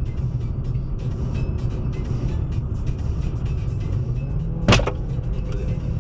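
A car driving, with a steady low rumble of engine and road noise, and a single sharp bang about three-quarters of the way through.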